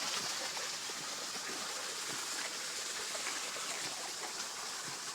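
Water running steadily in a small stream or little waterfall: a continuous rushing hiss.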